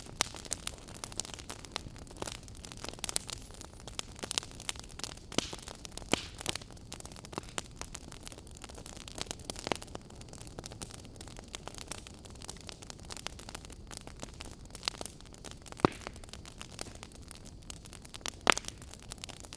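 Wood fire crackling steadily, with a soft hiss under irregular sharp pops and snaps; two louder pops, about three-quarters of the way through and near the end.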